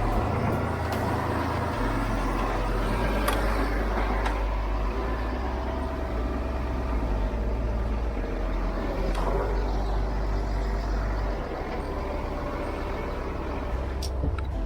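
Heavy truck diesel engine running steadily at low revs, with the engine note shifting about two seconds in and again near the end, and a few brief clicks just before it ends.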